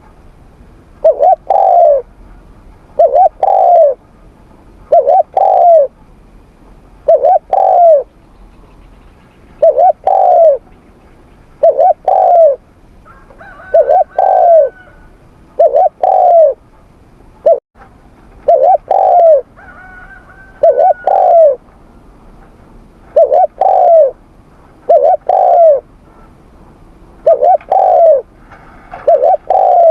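Spotted dove cooing: loud two-note coos repeated about every two seconds.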